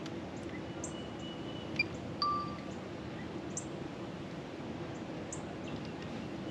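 Outdoor ambience: a steady background hum with scattered high bird chirps and a held whistled note, broken about two seconds in by a sharp click and a short ringing ding.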